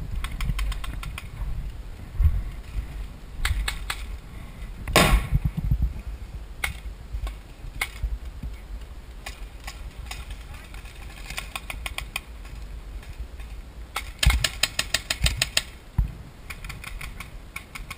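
Paintball markers firing in rapid bursts of sharp cracks, the longest and densest burst about fourteen seconds in, with a low rumble of wind on the microphone and indistinct voices.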